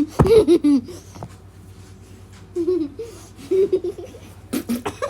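People laughing in short bursts, with a few sharp knocks about four and a half seconds in.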